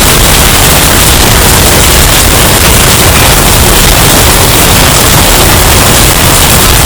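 Hurricane wind sound effect, bass-boosted and distorted: a steady, very loud rush of noise with heavy bass that does not change.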